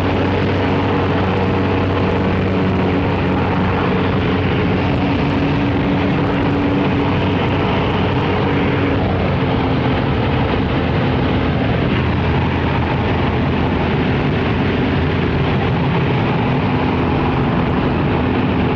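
Cessna 188 AgWagon crop-duster's piston engine and propeller running in a steady drone, its pitch shifting slightly about halfway through.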